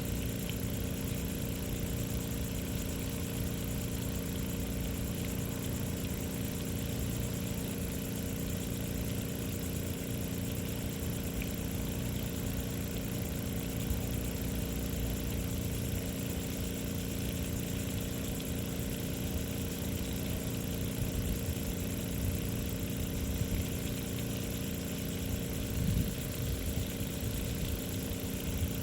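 A steady low mechanical hum, like an engine idling, with a few even tones over a low rumble.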